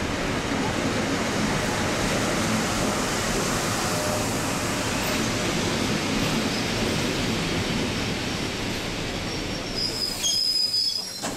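Passenger train rolling along a station platform, a steady rumble of wheels on rail, with a brief high-pitched wheel squeal near the end as the train slows, after which the noise drops away.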